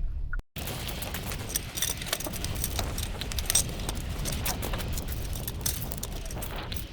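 Strong wind rumbling on the microphone, with rapid clattering and rattling throughout, typical of gear or tent parts being shaken in a gale.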